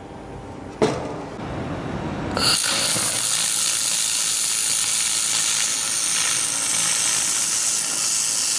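Handheld laser welder in use. A sharp click about a second in, then a hiss that builds and holds steady from about two and a half seconds in.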